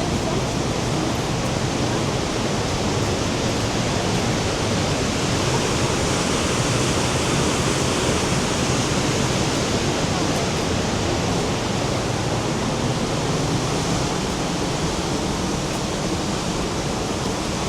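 The Rhine Falls, a large river waterfall, rushing steadily as a dense, even wash of water noise.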